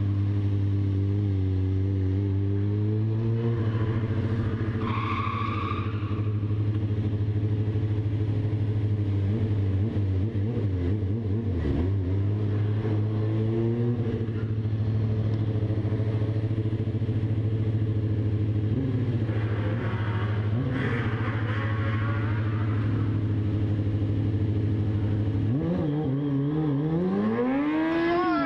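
Motorcycle engine running at a steady pitch, with small dips in revs. A few seconds before the end it revs up and back down in a big sweep.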